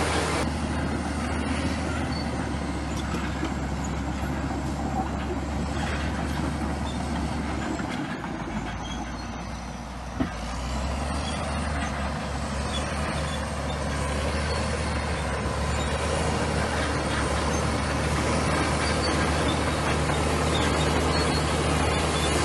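Komatsu bulldozer's diesel engine running with a steady low drone; it eases off for a couple of seconds near the middle, then picks back up. A single sharp click comes about ten seconds in.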